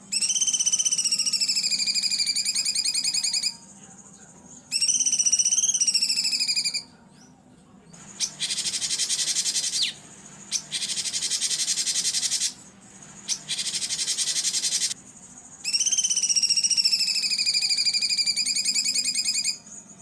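Songbird masteran recording of rough 'tembakan' bursts. Loud, high, rapidly pulsing trills alternate with harsh rasping bursts, each lasting one to three seconds with short gaps between.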